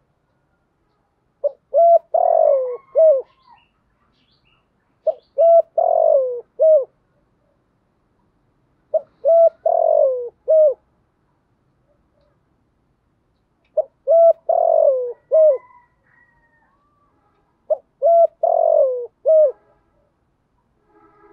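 Spotted dove cooing: five phrases about four seconds apart. Each phrase is two short coos, a longer falling coo and a short closing coo.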